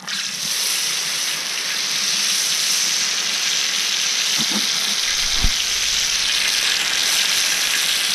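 Red currants frying in smoking-hot oil in a steel wok, a loud, even sizzle that starts suddenly. There is one dull knock about five and a half seconds in.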